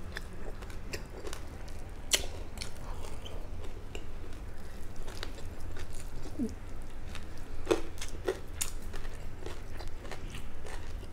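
Close-up chewing and biting with small crunches and crackles as crisp fried fish is eaten by hand, over a steady low hum.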